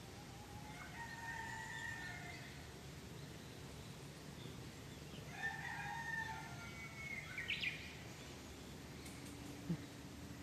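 Two drawn-out animal calls, one about a second in and a longer one about halfway through, over a low steady hum.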